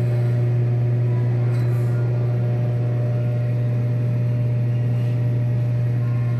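Steady low mechanical hum with a few fainter steady tones above it, unchanging throughout.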